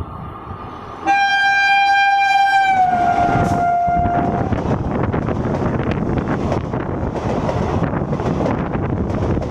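Indian Railways express train horn sounding one long, loud blast as the train runs through the station at speed. The horn drops slightly in pitch partway through and cuts off after about three seconds. The loud rush and rumble of the train passing close by follows.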